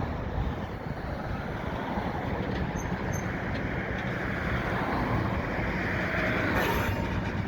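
Steady vehicle rumble from nearby road traffic and locomotive engines blending together, swelling slightly about six seconds in.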